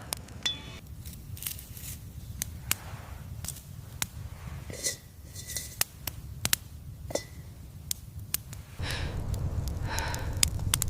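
A fire burning, with irregular sharp crackles and pops over a low steady rumble that grows louder near the end.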